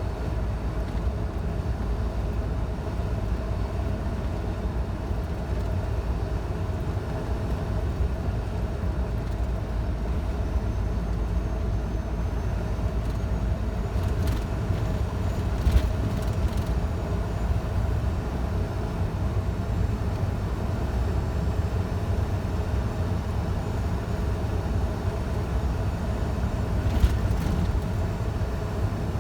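Scania truck engine and tyre noise while driving at a steady pace, a continuous low rumble. A few brief clicks come about halfway through and again near the end.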